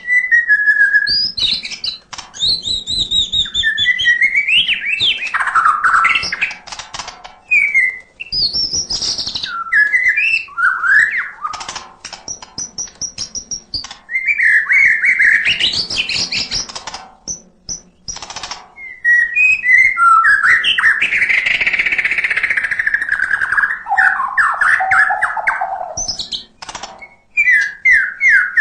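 White-rumped shama (murai batu) singing nonstop: a varied song of clear whistles, rising and falling glides and fast runs of repeated notes, with chattering passages. The song is full of mimicked calls of other birds (isian).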